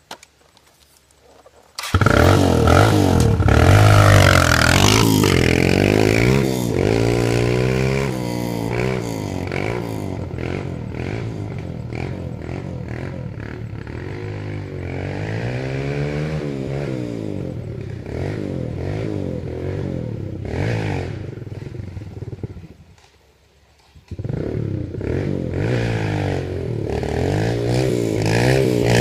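Dirt bike engine revving up and down as it is ridden, its pitch rising and falling again and again. It comes in abruptly about two seconds in, drops out for about a second near the end, then returns.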